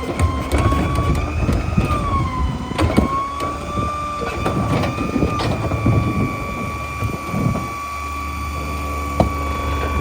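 Mack LEU rear-loader garbage truck packing: the diesel engine runs under the high whine of the packer's hydraulics, which wavers in pitch for the first five seconds or so and then holds steady. A few sharp knocks and clanks sound through it.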